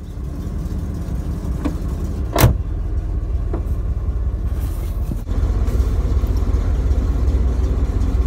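An old car's engine running, heard from inside the cabin as a steady low rumble. There is a sharp clunk about two and a half seconds in, and the engine gets louder a little after five seconds.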